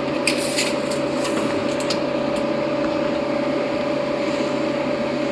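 Steady mechanical hum with a constant whine, like a running fan or air-conditioning unit, with a few light clicks in the first two and a half seconds.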